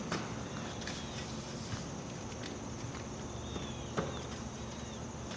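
A few sharp clicks and knocks of exhaust parts being handled and fitted to a dirt bike, the loudest about four seconds in, over steady background noise with faint high descending chirps.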